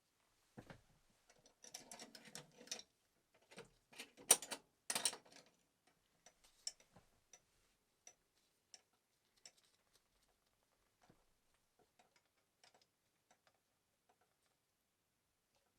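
Faint, irregular clicks and light clatter of small parts being handled at a workbench: a busy patch of rattling in the first five seconds, then scattered single ticks.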